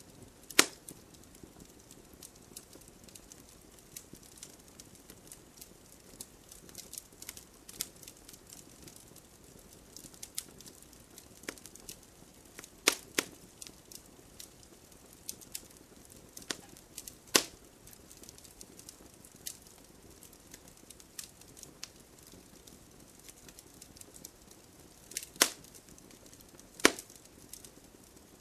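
Wood fire burning in a fireplace, with a soft steady hiss and frequent small crackles, broken by a few loud sharp pops from the burning logs.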